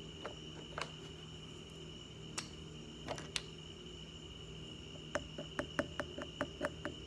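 Small clicks and taps from handling and squeezing a slime kit's purple colorant bottle, ending in a quick run of about nine clicks. A steady high-pitched whine runs underneath.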